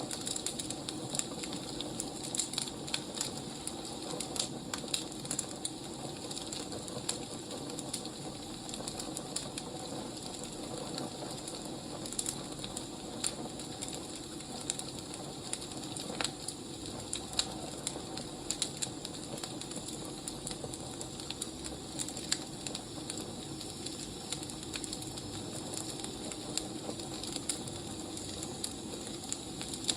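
Wood fire crackling: a steady low rush with many small irregular pops and snaps.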